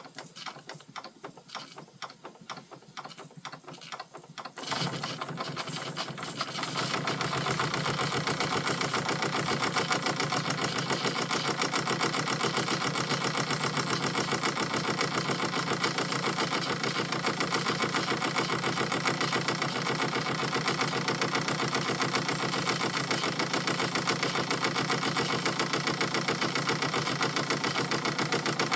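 Vintage Krick model marine steam engine running: light fast ticking at first, then about four and a half seconds in it picks up into a louder, steady run with a rapid, even beat.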